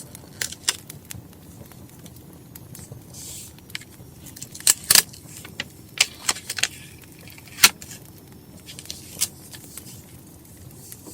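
Crackling wood fire: irregular sharp pops and snaps over a low steady rumble, mixed with light handling sounds of paper and stationery on a desk.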